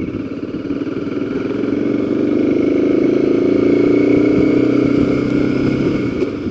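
Motorcycle engine running while riding, getting louder through the first few seconds, then easing off near the end.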